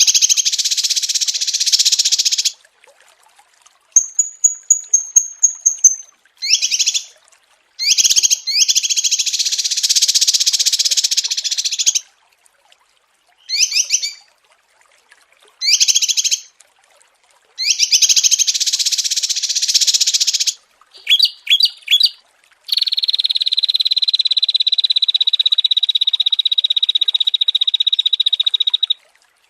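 Small songbirds' songs from a mastering track for training cage birds: loud bursts of dense, fast chattering song separated by short silences, a high thin trill about four seconds in, and a long steady buzzing trill over the last six seconds.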